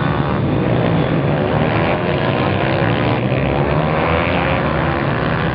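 A pack of pitbikes, small motorbike engines, running and revving together as a dense overlapping drone of many engines at once, with pitches rising as riders open the throttle.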